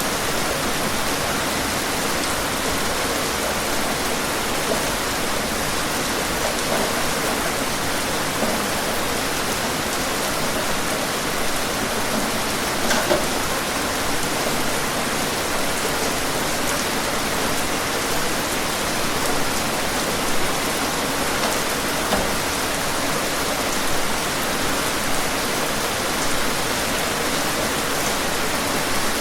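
Steady, even rain falling on a surface, with scattered individual drops heard through the constant hiss.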